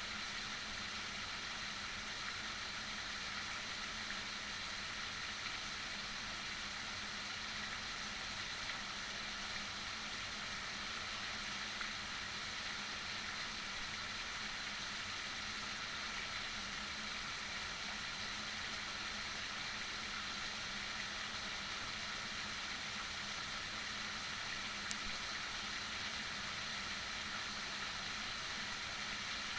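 Heavy rain falling in a steady, even hiss, with a faint low hum underneath and a single sharp click near the end.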